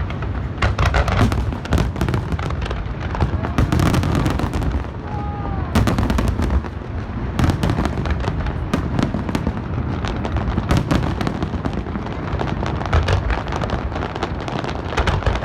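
Large aerial fireworks barrage: a dense, continuous run of bangs and crackles from shells bursting overhead.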